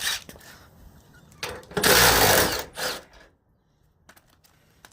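A handheld power tool running in short bursts, the longest about a second, driving out a bolt on a truck's fender or door.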